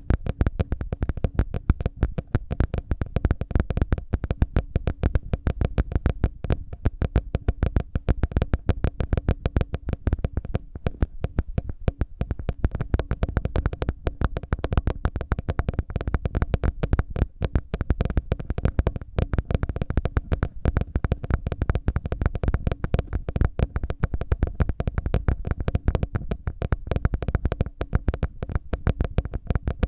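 Close-miked ear-cleaning ASMR: an ear pick scratching and clicking in dense, rapid, unbroken strokes.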